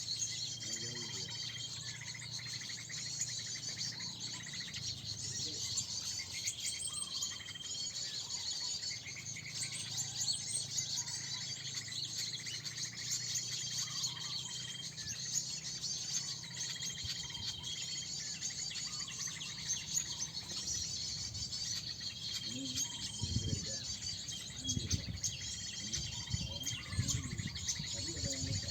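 Many small birds chirping densely, drawn in by a bird-trapping lure, with a short level whistle recurring every few seconds. Low rumbling comes in briefly near the end.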